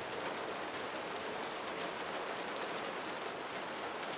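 Steady soft rain falling, an even patter with fine drop ticks.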